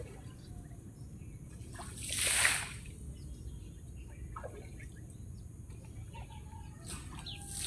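Lumps of quicklime thrown into pond water, splashing: one loud splash about two seconds in and another near the end. Faint bird chirps between them.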